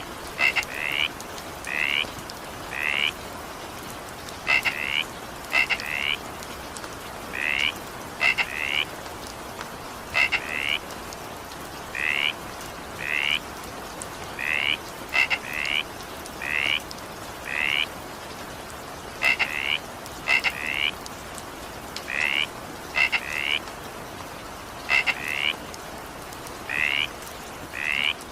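Frogs calling in the rain: short, rising calls, often in quick pairs, repeating about every second over a steady hiss of rainfall.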